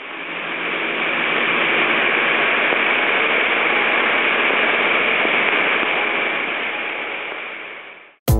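Steady hiss of falling water, like heavy rain, fading in at the start and fading out near the end.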